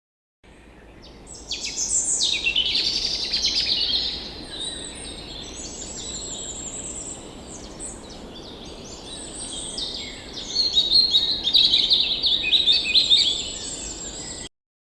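Birds chirping and singing, many quick calls and trills overlapping. Louder in two stretches; the sound starts and cuts off abruptly.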